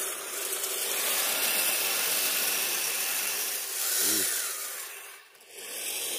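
Radio-controlled snow vehicle driving through powder snow: a steady rasping hiss from its motor and its tracks or tyres churning the snow. There is a short rising-and-falling whine about four seconds in, and the sound dips briefly near the end.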